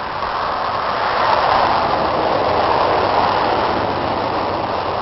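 John Deere 2950 tractor's diesel engine running steadily, a loud even rush that swells a little between one and three seconds in.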